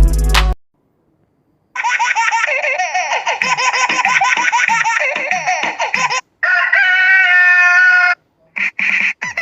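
Funny chicken ringtone: a flock of chickens clucking and cackling over one another for about four seconds, then one long rooster-like crow held for nearly two seconds. The last bit of a music ringtone cuts off right at the start, and short laughing sounds begin near the end.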